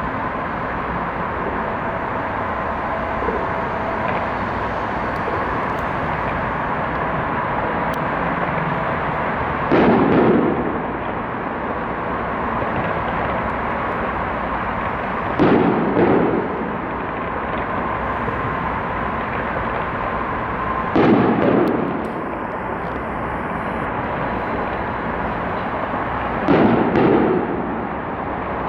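Fireworks shells bursting: four heavy booms about five seconds apart, each a quick double bang, over a steady background noise.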